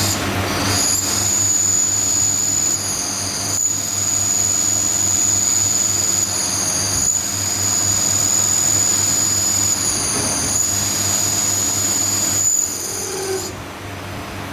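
Factory machinery running with a steady high-pitched whine over a low hum, briefly interrupted a few times, easing off near the end.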